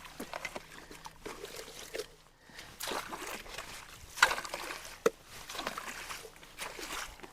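Water splashing and sloshing in irregular bursts, with two sharp knocks about four and five seconds in, as debris is worked out of a blocked road culvert.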